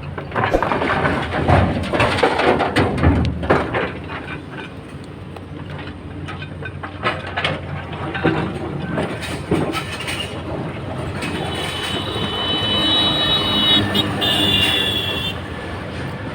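Hydraulic excavator working over a running engine, dumping stone into a steel tipper body: a heavy rattling clatter of rocks over the first few seconds, then scattered knocks as the bucket swings. A high squeal sounds for a couple of seconds about three-quarters through.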